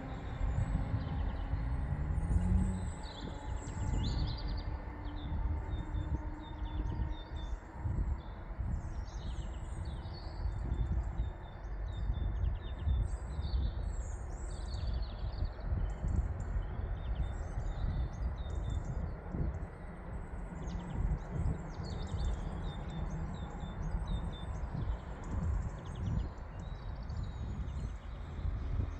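Small birds chirping and twittering repeatedly over a steady low rumble.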